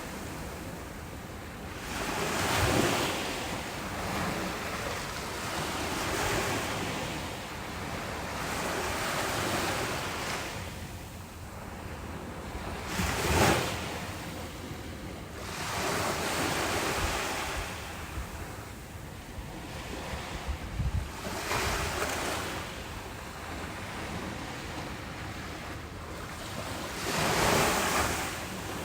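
Ocean waves breaking and washing on a beach, the surf swelling and falling every few seconds, loudest a few seconds in, about halfway, and near the end. Wind buffets the microphone with a few short low gusts.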